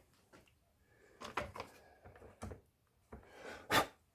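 Handling noise from working on the chainsaw's plastic housing with tools: a scatter of clicks, knocks and rustles, with a louder sharp click near the end.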